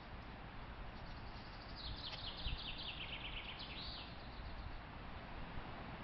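A songbird sings one phrase of about two seconds: a quick run of notes falling in pitch, ending in a short flourish, over a steady background hiss.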